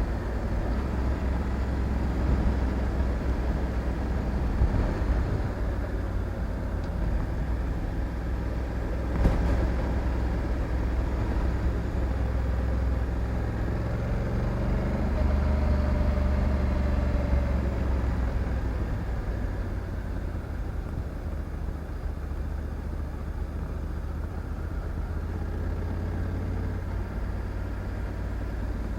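Honda Africa Twin 1100 DCT's parallel-twin engine running steadily on the move, a low rumble that swells a little around the middle and eases off after, with one sharp click about nine seconds in.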